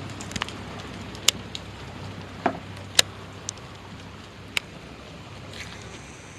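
Steady rain falling, with a few scattered sharp taps.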